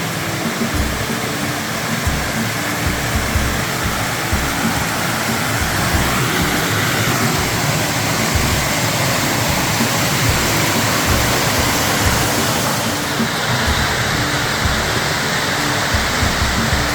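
Waterfall rushing steadily, with background music underneath; the rush changes in tone about two-thirds of the way through.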